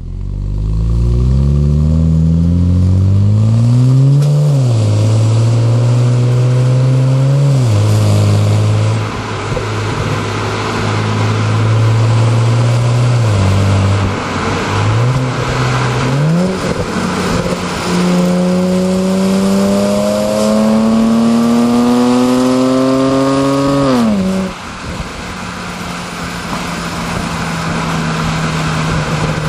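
BMW 335i's turbocharged 3.0-litre straight-six engine and exhaust under acceleration. The pitch climbs hard and drops sharply at upshifts about 4 and 8 seconds in, then holds steady. A longer pull climbs from about 18 seconds in and cuts off sharply near 24 seconds, after which the engine runs steadily.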